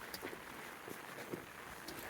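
Light steady rain falling, with soft footsteps about twice a second.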